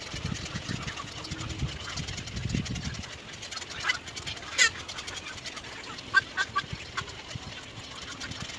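Short high bird chirps, one about halfway through and a quick run of three or four pips a little later, over a low rumble that fades after the first few seconds.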